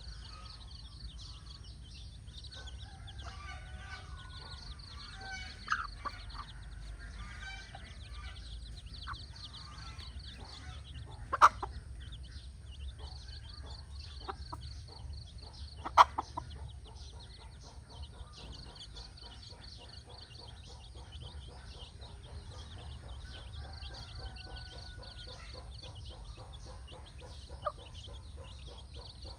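Chickens clucking, over a constant high-pitched pulsing in the background. Two sharp, loud clicks come about a third and about halfway through.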